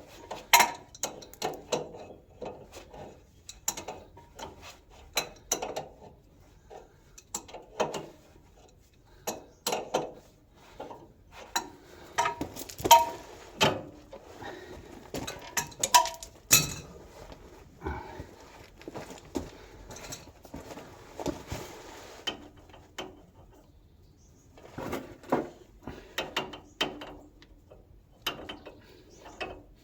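Hand tools clinking and knocking irregularly on the metal fittings of a blocked fuel pipe on an old stationary engine's fuel tank, with a few short metallic rings about halfway through.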